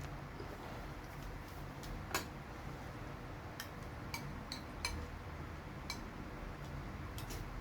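Eating sounds: scattered small sharp clicks and taps of utensils and chewing, the loudest about two seconds in and several more in the back half, over a low steady hum.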